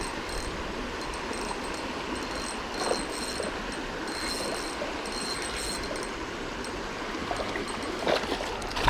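Creek water flowing steadily over rocks, an even rushing sound, with a faint high tone that comes and goes above it.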